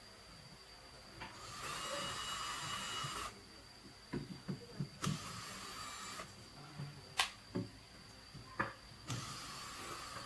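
A small power tool or motor whirs in two short runs, one near the start and one near the end. Between the runs come a string of sharp clicks and knocks, like tools or parts being handled.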